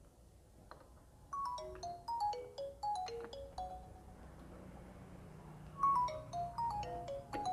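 Mobile phone ringtone playing a short melody of bright, quickly stepping notes, the phrase starting again about four seconds later.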